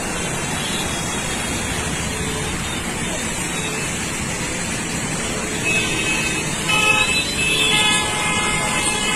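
Steady rushing noise, with vehicle horns honking several times from about six seconds in.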